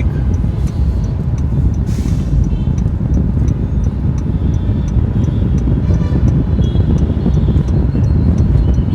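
Steady low road rumble inside a car driving in traffic, with the turn indicator ticking evenly throughout. A short hiss comes about two seconds in.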